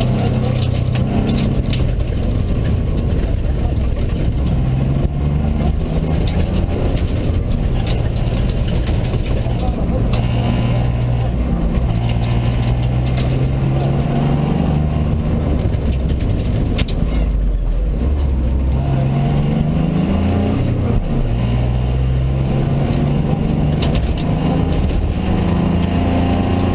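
Mitsubishi Colt rally car's engine under hard acceleration, heard from inside the cabin: the revs climb again and again, dropping back at each gear change or lift, over steady road and tyre noise.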